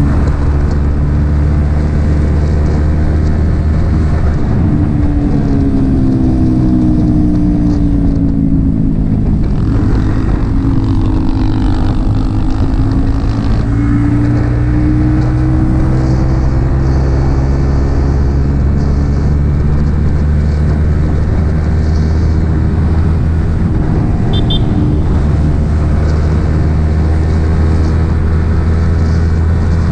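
Yamaha XSR 155's single-cylinder engine running through an aftermarket M4 exhaust while riding. The engine note drops off a few seconds in and then builds again, and is otherwise steady.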